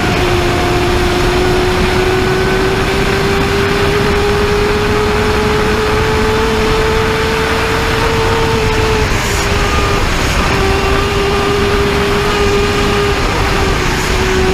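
Superbike engine running at sustained high speed under heavy wind rush. The engine note climbs slowly for about nine seconds, breaks off briefly, then holds steady a little lower.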